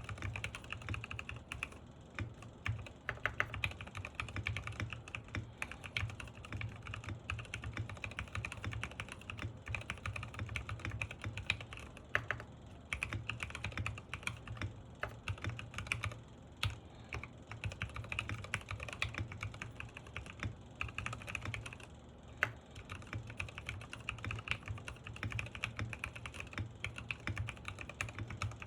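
Continuous fast typing on a Sky87 mechanical keyboard built with Gateron Pro Milky Yellow linear switches and MDA-profile keycaps: a steady stream of key clacks, as in a typing sound test.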